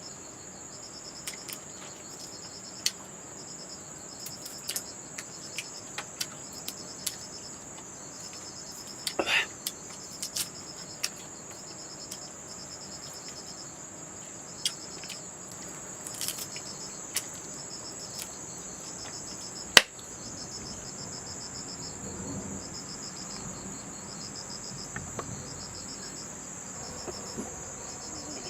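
Insects trilling steadily in a high, continuous drone, with a second, pulsing chirp repeating in regular short groups. Scattered sharp clicks and snaps break through now and then; the loudest is about 20 seconds in.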